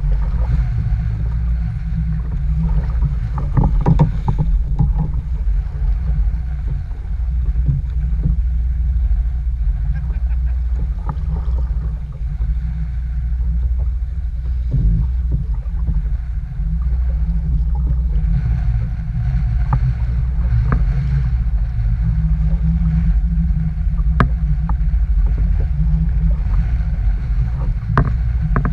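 Strong gale-force wind buffeting the microphone, a steady heavy low rumble, with a few scattered sharp knocks.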